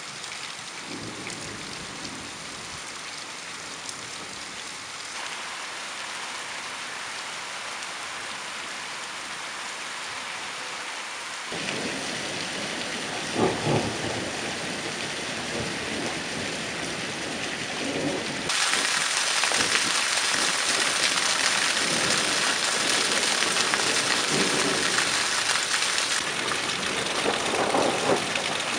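Steady rain falling on flat earthen roofs, with water pouring from a roof drain spout. The rain gets louder in sudden steps, heaviest in the second half, with a few low rumbles.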